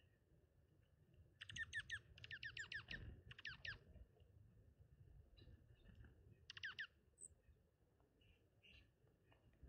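Small songbird calling: four short bursts of quick falling notes, the first three close together in the first few seconds and one more about six and a half seconds in.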